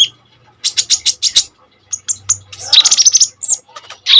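Kolibri ninja sunbird singing: rapid, high-pitched chirps and trills in quick clusters.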